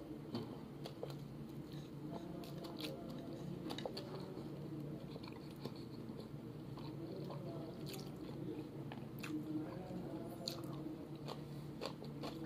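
Close-up chewing and biting of food eaten by hand, with scattered small crunches and wet mouth clicks over a steady low hum.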